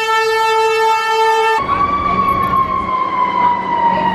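Fire engine on a city street blasting its air horn on one steady note, which cuts off about a second and a half in. Its siren then wails on, slowly falling in pitch.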